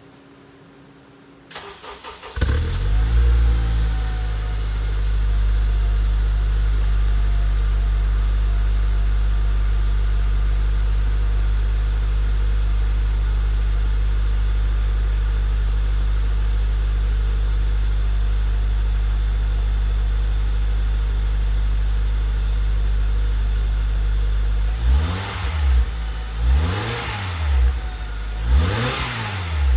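Honda Civic's K20Z2 2.0-litre inline-four cold-starting through an aftermarket Magnaflow 14832 muffler, otherwise stock exhaust: the starter turns briefly, the engine catches about two seconds in and settles into a steady, deep idle. Near the end it is revved in a quick series of throttle blips, each rising and falling.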